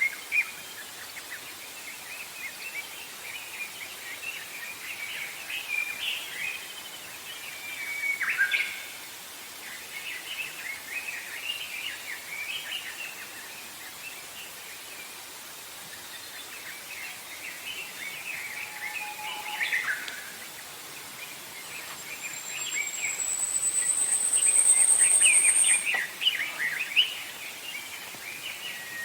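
Several forest songbirds chirping and trilling over one another, with short quick phrases throughout. Near the end a high, buzzy trill rises and holds for about four seconds, louder than the rest.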